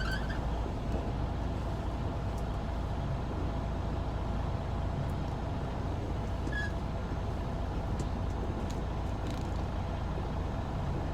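Semi truck's diesel engine running steadily at low speed while the truck reverses a flatbed trailer into a dock, heard from inside the cab, with a few faint ticks.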